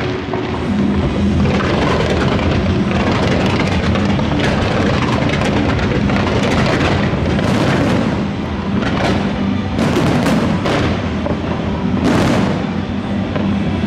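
Fireworks bursting over the loud music of a pyromusical show: a run of booms and crackling bursts, with about half a dozen sharp ones standing out above the music.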